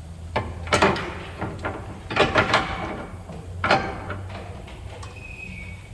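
A run of sharp knocks and clatter from hard objects being handled, coming in clusters about a second in, in three quick strokes a little after two seconds, and once more near four seconds, over a steady low hum.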